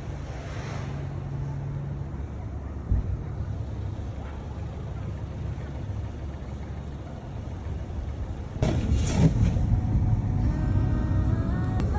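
Road traffic rumbling on a city street, with a vehicle passing louder about three-quarters of the way through. Near the end a steady pitched tone comes in over it.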